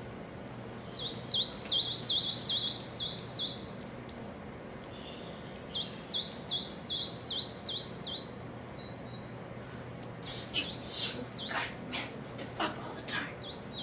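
Birds singing: two runs of quick, repeated high chirps, then from about ten seconds in a series of rougher, harsher calls.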